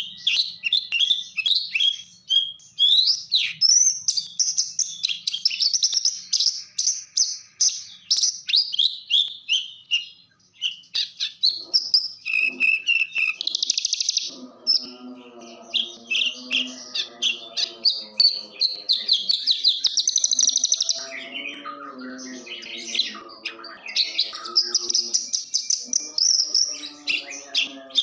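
Javan bushlark (branjangan) singing a long, fast, varied song of high chirps and trills with hardly a pause. A lower pitched, pulsing sound joins beneath the song about halfway through.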